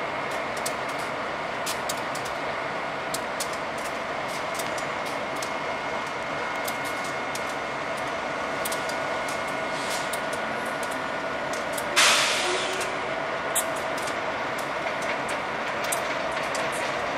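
Amtrak Acela electric trainset rolling slowly through the rail yard: a steady hum with scattered clicks, and a sudden loud hiss about twelve seconds in that fades over about a second.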